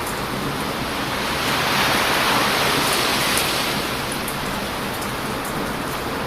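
Ocean waves breaking on a beach: a steady surf hiss, with one wave swelling louder and washing in from about one and a half to four seconds in. Faint, sparse crackles of a wood campfire sound over it.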